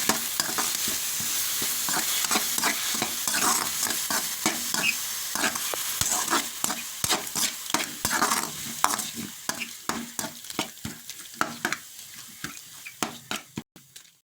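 A coarse-ground ginger-garlic, mint, coriander and green-chilli paste sizzling in oil in a kadai while a spatula stirs it, scraping and clicking against the pan. The sizzle thins out over the last few seconds, then cuts off abruptly just before the end.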